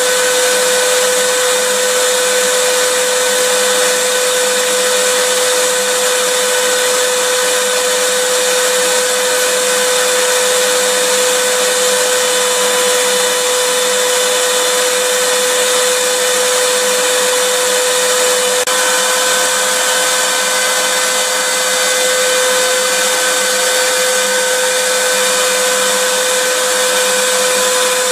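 Electric vacuum cleaner running steadily: a continuous rushing of air with a fixed motor whine.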